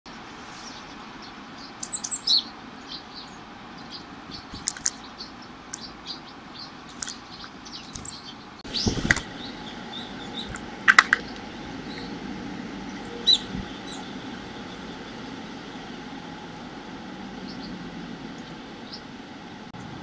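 Short, high bird chirps scattered through, with a flurry of wing flaps just before nine seconds in as a brown-eared bulbul comes in close, over steady background noise.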